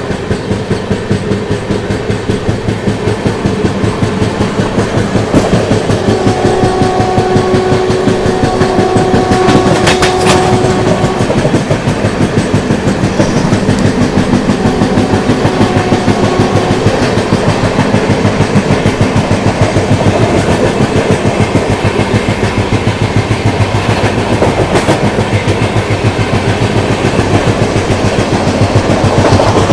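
Howrah Duronto Express running at speed, its wheels clattering in a fast, even rhythm over the rail joints. A steady tone sounds for about five seconds a third of the way in, and again faintly a little later.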